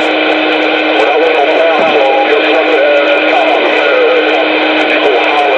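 CB radio transmission heard over the receiver's speaker: a loud, garbled, warbling signal in a thick bed of static and steady hum.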